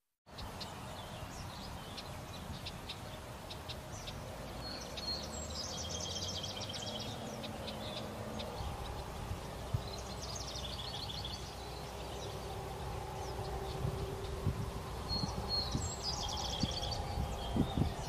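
A songbird sings a short phrase three times, about five seconds apart: a high note followed by a fast trill. Under it runs a steady outdoor background with a low rumble, and a few soft thumps come near the end.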